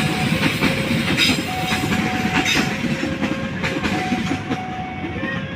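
A train passing close by, its wheels clacking over the rail joints with a continuous rumble. Over it a two-note warning alarm sounds, switching between a lower and a higher tone every second or so.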